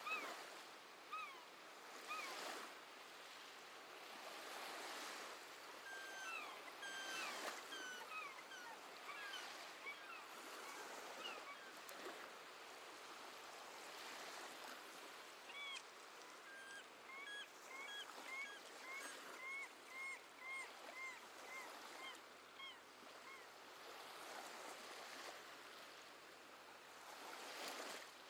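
Gentle sea waves washing steadily, with seabirds giving short falling calls scattered throughout and, about two-thirds of the way in, a steady run of nearly two calls a second.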